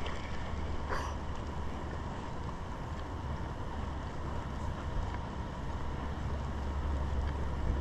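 Wind buffeting the microphone with a steady low rumble, over a steady rush of river water, and one faint click about a second in.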